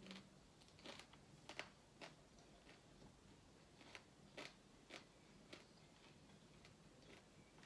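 Faint chewing of crispy fried salted fish and rice eaten by hand: soft, irregular mouth clicks and small crunches about once or twice a second.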